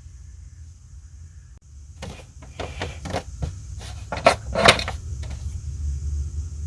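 A run of sharp clicks and knocks from handling a sixth-scale action figure and its plastic parts and packaging, with the two loudest knocks near the middle, over a low steady hum.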